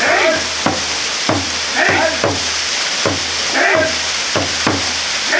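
Waterfall water pouring steadily as a dense hiss. A voice calls out again and again on a rising-then-falling pitch, about every two seconds, over the water.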